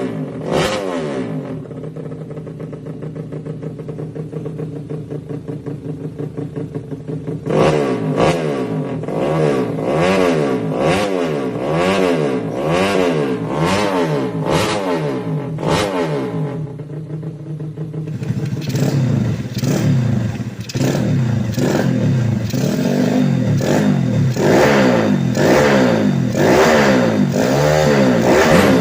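Bored-up Yamaha Jupiter Z single-cylinder four-stroke motorcycle engine, built for road racing, idling and then blipped on the throttle in quick repeated revs. After a short idle it is revved harder and more continuously near the end.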